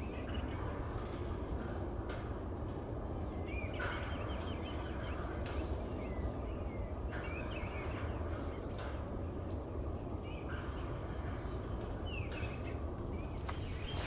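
Birds calling in short, scattered chirps over a steady hiss of wind.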